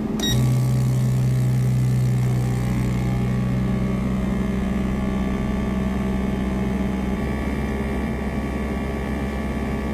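Mini 3D sublimation heat-press machine running its timed cycle: its pump motor starts with a click just after the start and hums steadily. A strong low tone in the hum drops away about halfway through, leaving a steadier, quieter hum.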